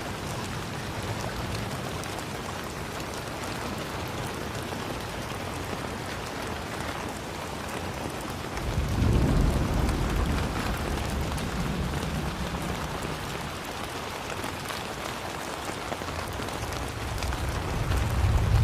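Steady rain falling and pattering on surfaces. A low rumble swells about eight and a half seconds in, fades, and builds again near the end.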